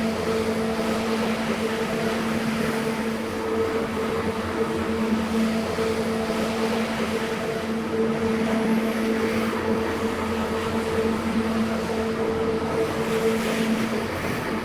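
Carpet-cleaning machine motor running steadily, a constant hum over a rushing hiss.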